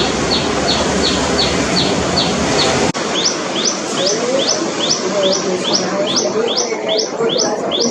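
Common tailorbird calling: a loud series of sharp, high, repeated notes, about three a second. About three seconds in, after a cut, the notes become upward-sweeping 'tuui' notes at the same pace.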